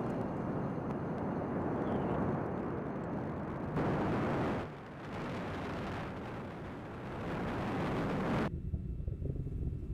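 Falcon 9 rocket's nine Merlin first-stage engines thundering during ascent just after liftoff, a loud steady noise. About eight and a half seconds in it changes abruptly to a lower, crackling rumble.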